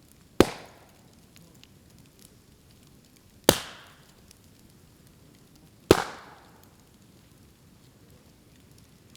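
Bamboo culms bursting in a bonfire: three loud, sharp bangs a few seconds apart, each dying away quickly, with faint crackling of the fire between them. Each bang is a sealed bamboo segment splitting open as the air and steam trapped inside it expand in the heat.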